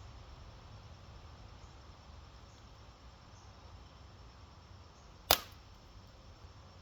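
A slingshot shot of clay ammo at a cinder block: one sharp crack about five seconds in, over a faint steady background hiss.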